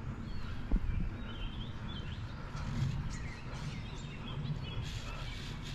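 Small birds chirping in short, twittering calls over a steady low rumble, with a single thump a little under a second in.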